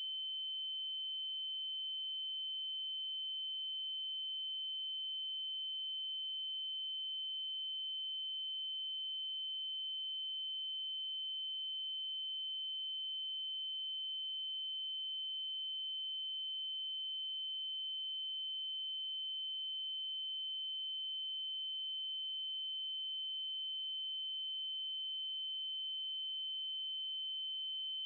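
Steady 3072 Hz triangle-wave tone: one constant, high, pure-sounding pitch that never changes, with a faint tiny blip about every five seconds.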